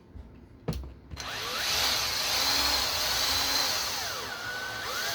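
Electric screwdriver running for about four seconds, driving a long screw back into an RC car's rear wheelie bar mount, its motor whine rising and falling in pitch. A single click comes just before it.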